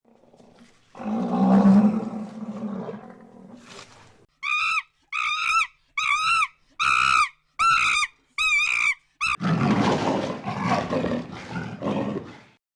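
Animal sounds: a low rough growl, then a run of short, high-pitched calls repeated about twice a second, then a longer rough, noisy growl.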